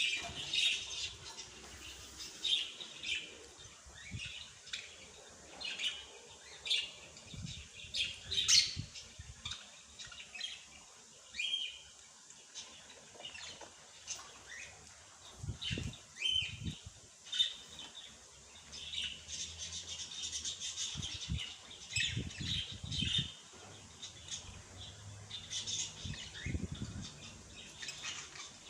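Small birds chirping and tweeting, with many short, high chirps following one another. A few soft low thuds come in now and then.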